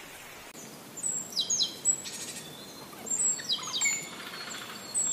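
Songbirds calling in sharp, high chirps that sweep down in pitch, in quick groups of two or three, with a brief rapid trill about two seconds in. A steady hiss runs under them, louder for the first half second.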